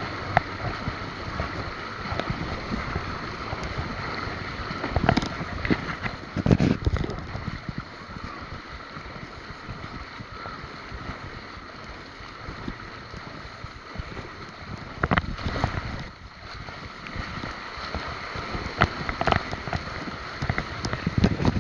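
Wind rushing over the microphone and steady road noise while riding a bicycle, with a few sharp knocks from bumps along the way.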